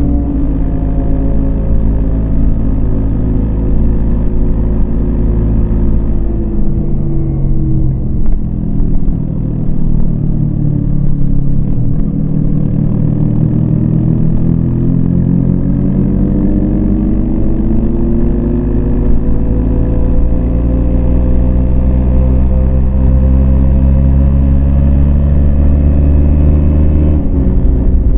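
Yamaha MT-25 parallel-twin motorcycle engine pulling under load. Its note dips over the first several seconds, then climbs steadily for about fifteen seconds, and changes abruptly near the end.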